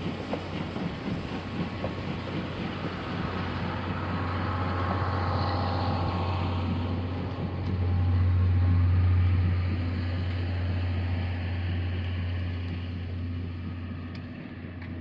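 Steam-hauled passenger train running by on the line, a steady low rumble that swells to its loudest a little past halfway and then fades away.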